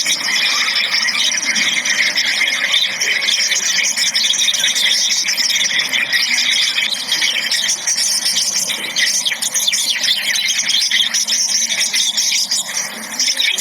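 A dense chorus of many small birds chirping and squeaking together, high-pitched and unbroken.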